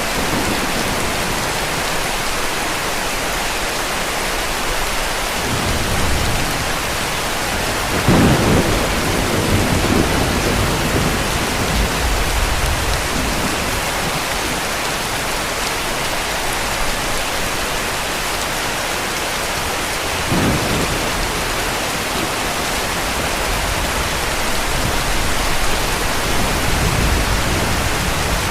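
Heavy rain falling steadily, with distant thunder: a long low rumble peaking about eight seconds in and a shorter one starting suddenly about twenty seconds in.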